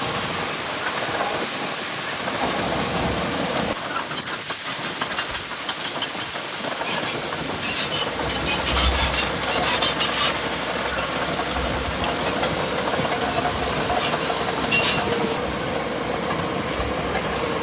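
Heavy earthmoving machinery running: a steady noisy rumble with a hiss, and bursts of metallic clatter about halfway through and again near the end.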